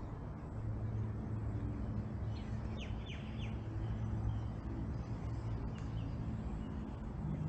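A bird gives three quick falling chirps about three seconds in, with a few fainter chirps later, over a steady low hum.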